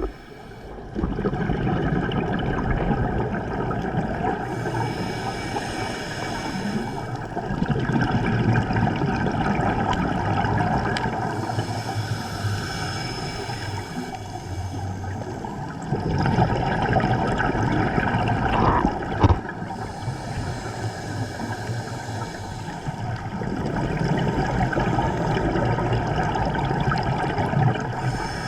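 Water sloshing and gurgling in surges that swell and fade every few seconds.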